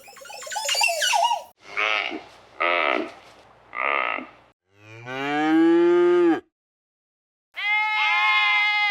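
A series of animal calls: a high squealing call, three short calls, then a long lowing call that rises and falls in pitch. After a second's pause comes another long, steady call.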